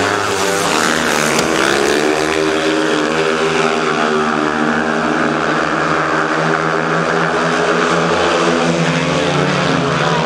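Speedway motorcycles' single-cylinder methanol engines running at full throttle. The pitch rises in the first couple of seconds as they accelerate, holds high, then drops a little near the end.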